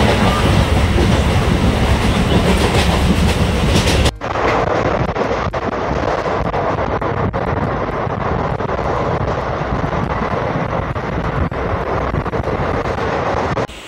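MEMU electric train running along the line: a steady rush of wheel and rail noise with repeated clicks of the wheels going over rail joints. The sound changes abruptly about four seconds in.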